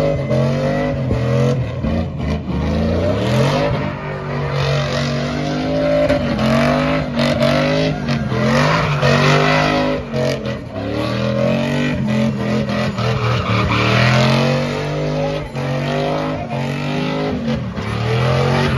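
A truck engine revving hard during a burnout, its pitch rising and falling over and over as it is held near high revs, with a rough hiss of spinning tyres underneath.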